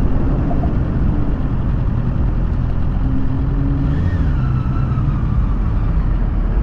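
Sportbike engine running steadily at low speed as the bike rolls in. A faint whine falls in pitch about four seconds in.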